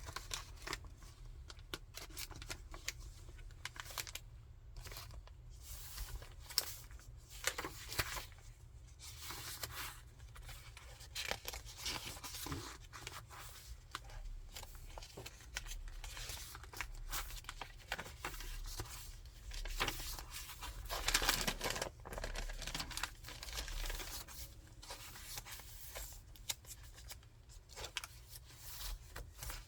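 Paper rustling and crinkling as the pages of a thick handmade junk journal are turned, one irregular rustle after another, with a louder burst of rustling about two-thirds of the way through.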